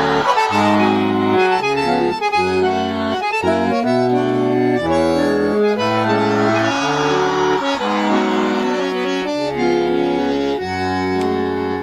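Instrumental break of a pop song's backing track: an accordion-led melody over sustained chords and a bass line moving in a steady rhythm, with no singing.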